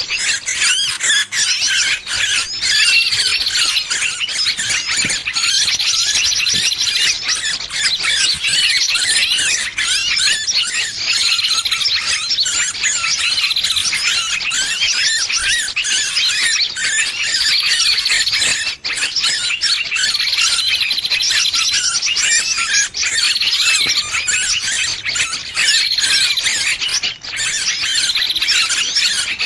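Small bird distress calls: dense, continuous high-pitched squealing and chattering with rapid notes and no pauses. This is a 'trapped bird' lure recording, the alarm of a caught bird, played to draw other birds in.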